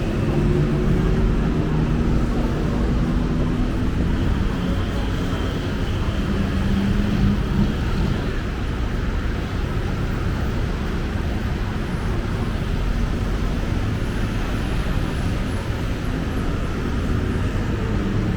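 City road traffic: a steady low rumble of vehicle engines and tyres passing. One engine's hum stands out in the first few seconds and again about seven seconds in.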